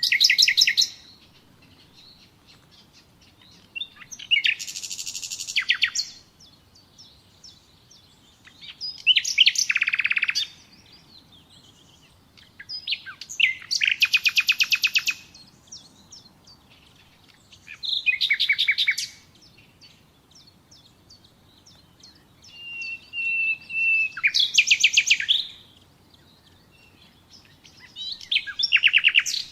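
Nightingale singing: short phrases of rapid repeated notes and trills, one every four to five seconds with pauses between. One phrase opens with a long held whistle that runs into a fast trill.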